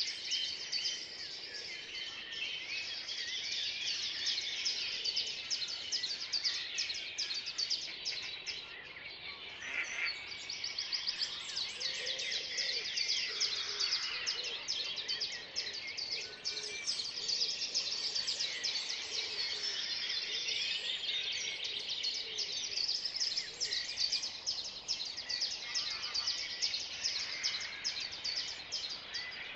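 Spring dawn chorus: many songbirds singing at once, a dense, continuous mix of high chirps and trills with a few lower notes underneath.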